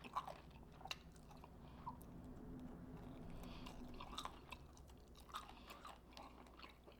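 Faint close-up chewing of KFC hot and spicy fried chicken wings, with scattered short crunchy clicks.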